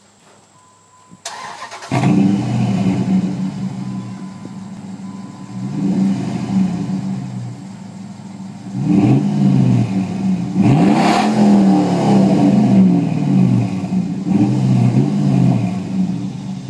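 2004 Dodge Ram's 5.7 L Hemi V8 starting about two seconds in, then idling and being revved several times, each rev rising and falling back to idle, heard through a Thrush aftermarket muffler with the catalytic converters kept.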